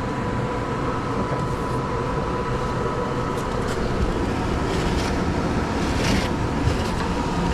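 HVAC system running steadily, its blower giving an even low rumble with a faint constant hum. A short rustle of handling about six seconds in.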